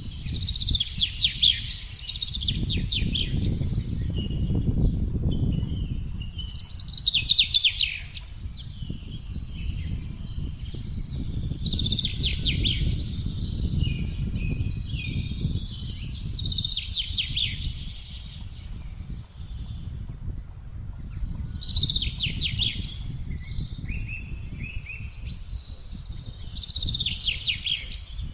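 A songbird singing a short, rapid phrase of notes, repeated six times at about five-second intervals, over the low rumble of wind that swells and eases.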